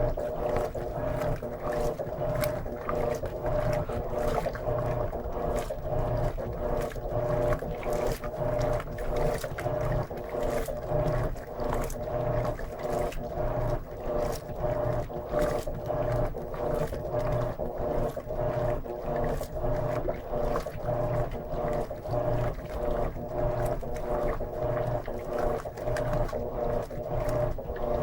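Electrolux LM13Q top-load washing machine agitating a load of jeans: the motor runs with a steady hum while water sloshes in the tub, pulsing in a regular rhythm.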